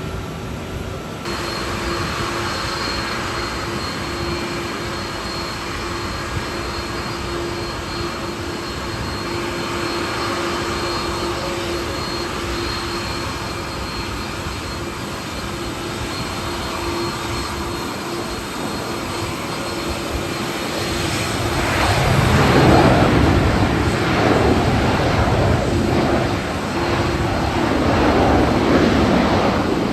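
Airbus A330-300 with Rolls-Royce Trent 700 jet engines on approach and landing: a steady jet hum with a held tone, growing much louder and rougher from about 22 seconds in.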